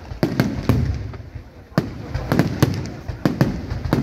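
Aerial firework shells bursting in a fireworks finale: about a dozen sharp bangs in quick, irregular succession, some close together in twos and threes, each trailing off in a short low rumble.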